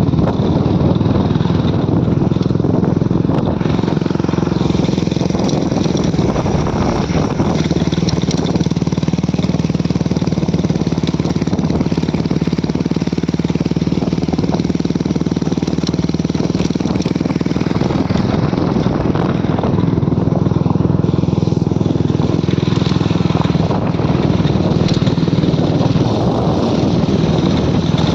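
Motorcycle engine running steadily while riding, with a constant low note and road noise.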